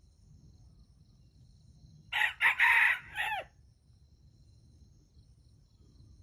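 A junglefowl rooster crows once, a short call of about a second and a half that starts about two seconds in and ends in falling notes. A steady high insect chirring runs underneath.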